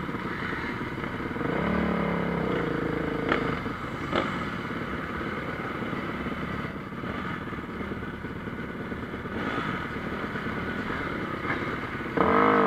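Motocross bike engines racing around the track, their revs rising and falling through the gears, with a few sharp clicks and a louder bike coming through just before the end.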